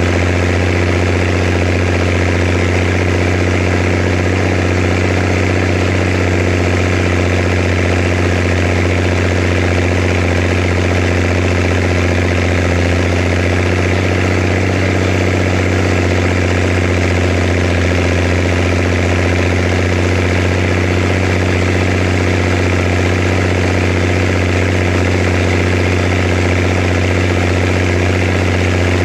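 Zetor Crystal 16145 tractor's diesel engine idling steadily, with an even low hum that does not change.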